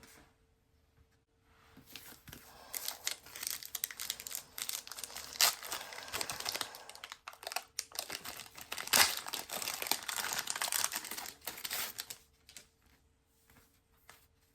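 Crinkling and tearing of a trading-card pack wrapper being handled and pulled open, a dense crackle lasting about ten seconds with two sharper rips partway through.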